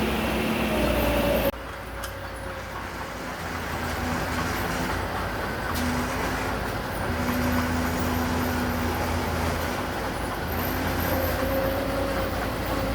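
Heavy construction machinery engine running, with steady engine tones that shift in pitch now and then; the sound drops abruptly about a second and a half in, then builds back up.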